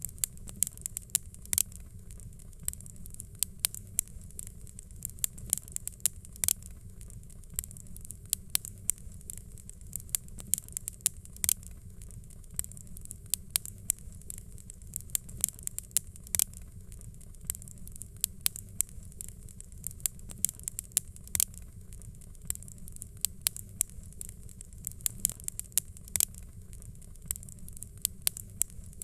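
Wood fire crackling in a fireplace: frequent irregular sharp pops and snaps over a steady low rumble and a faint high hiss.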